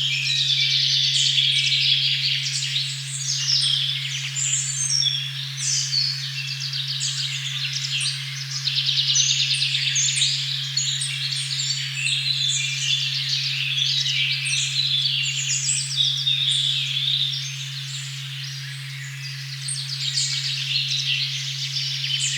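A steady, unwavering 136.1 Hz pure tone hums beneath a forest recording full of overlapping birdsong, with many short chirps and trills at once.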